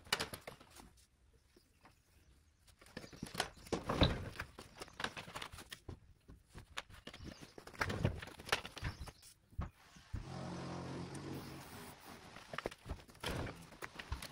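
Scattered knocks and clunks from handling a heavy sliding barn door and its old rail hardware, then background music comes in about ten seconds in.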